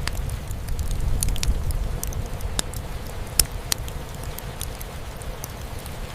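Wood fire crackling with scattered sharp pops, one louder pop about three and a half seconds in, over a steady low rumble and hiss of rain.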